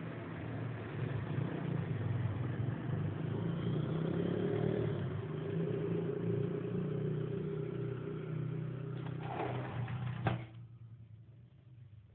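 A steady low mechanical hum that stops abruptly with a click about ten seconds in.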